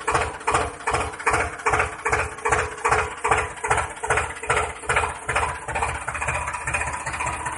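A motor running with an even chug, about two and a half beats a second, over a steady hum; after about six seconds it changes to a quicker, steadier chugging.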